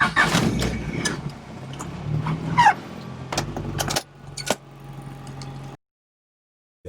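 A car engine running steadily at idle, amid sharp clicks and knocks and two short squeaks; it cuts off suddenly near the end.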